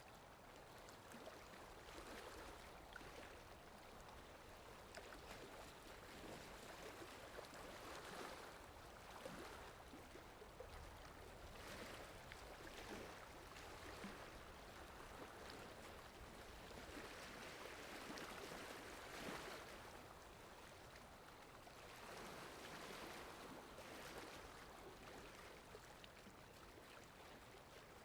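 Faint running-water sound effect, a steady flow of water that swells and eases every few seconds.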